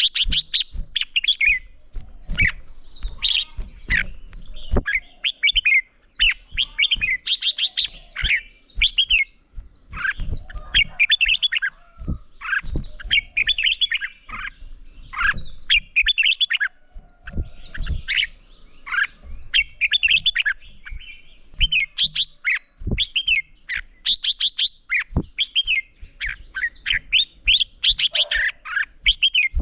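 Red-whiskered bulbuls singing a steady stream of quick, warbled whistled phrases that overlap one another, in the rapid competitive song keepers call hót đấu. Short sharp clicks and knocks fall among the phrases.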